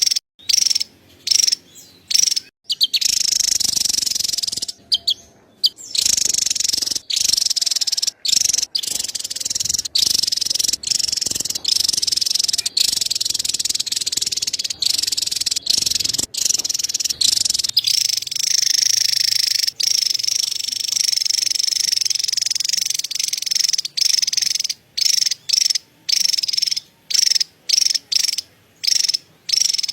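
Javan tesia giving its high-pitched chattering call ('cerecet'): quick separate bursts at the start and near the end, and one long unbroken chatter through most of the middle.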